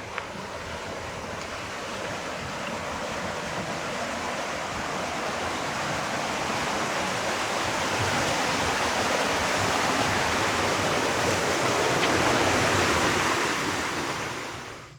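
Rushing, splashing water at a water wheel: a steady noise of water that grows steadily louder, then cuts off near the end.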